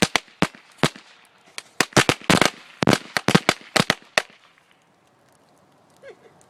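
Firecrackers set off by the fire inside a burning computer, going off in rapid, irregular clusters of sharp bangs that stop after about four seconds.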